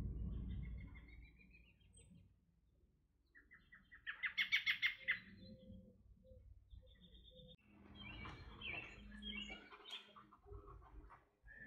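Birds chirping and singing. A quick series of notes rises in pitch near the start; about four seconds in comes the loudest part, a fast run of repeated notes; and busier chirping follows in the last few seconds.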